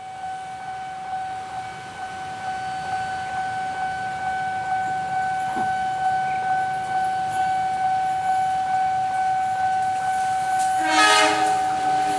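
A train approaches, its rumble growing steadily louder under a continuous steady high tone, and near the end its horn gives a short blast.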